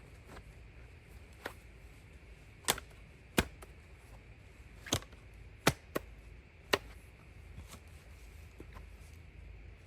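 A run of sharp, irregularly spaced knocks or taps, about six loud ones through the middle, with fainter ones between, over a low steady background.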